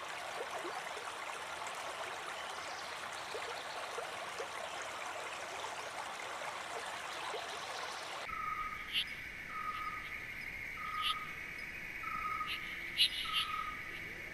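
A stream of rushing water, then an abrupt cut to forest ambience: a steady high insect drone, a short call repeated about once a second, and a few brief bird chirps.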